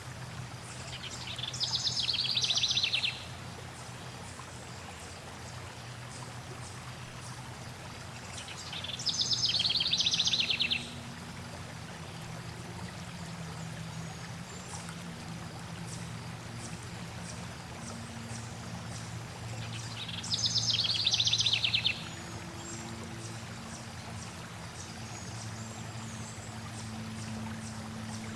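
Steady flowing water with a songbird singing a rapid trilled phrase three times, each about two seconds long and clearly louder than the water.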